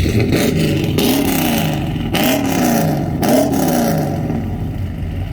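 Car engine just started and revved about four times, the pitch rising and falling with each blip of the throttle.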